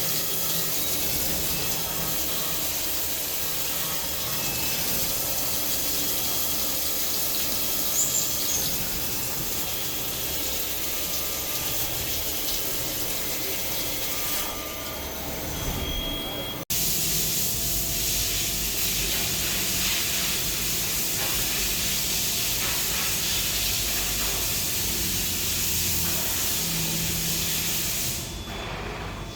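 CNC machine running with coolant spraying onto the work, a steady hiss, broken by an abrupt cut about two-thirds of the way through.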